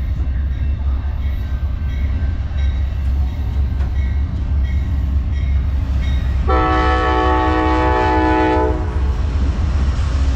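Amtrak California Zephyr's diesel locomotive running in with a steady low rumble, sounding one chord-like horn blast of about two seconds a little past halfway.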